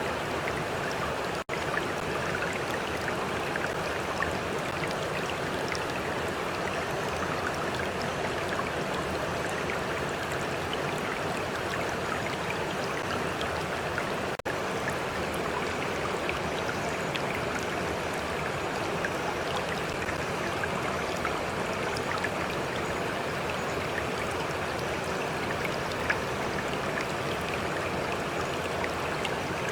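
A stream flowing steadily, a constant rush of water with small splashes and droplets through it. The level drops out for an instant twice, about a second and a half in and near the middle.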